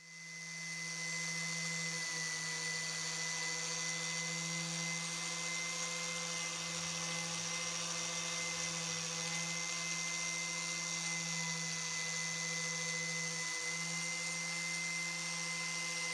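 Small electric power tool running steadily at one even pitch, a constant motor whine over a hiss, coming in over about a second.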